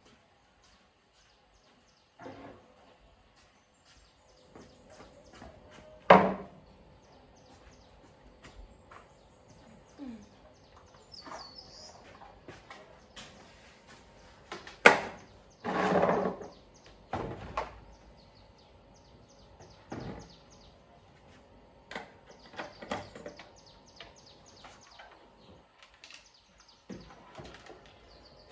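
Scattered knocks and clatters, the loudest about six seconds in and again around fifteen to sixteen seconds in, over a faint steady hum, with a short bird chirp near the middle.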